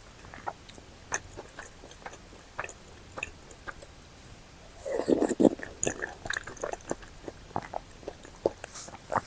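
Close-miked mouth sounds of a person eating: soft, wet chewing with scattered small clicks, and a louder stretch of biting and chewing about five seconds in.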